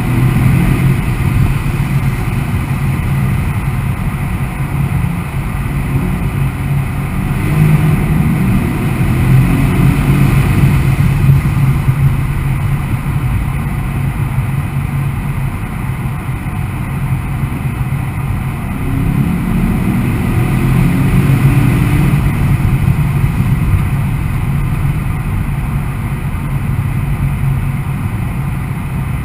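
Mercedes E63 AMG S 4Matic's 5.5-litre biturbo V8 running at Autobahn speed over steady tyre and wind noise. The engine pitch climbs twice as the car pulls harder.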